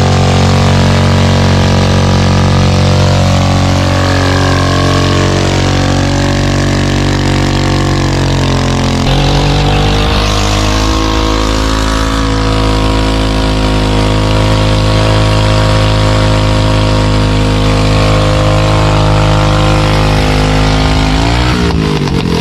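Small minibike engine running at high, steady revs, its pitch shifting about nine seconds in and dipping and rising again near the end.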